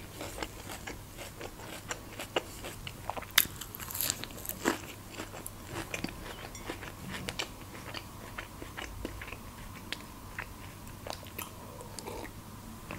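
Close-miked mouth sounds of a person chewing crisp food, a run of sharp crunchy clicks, the loudest about three to five seconds in. Near the end comes a sip from a mug.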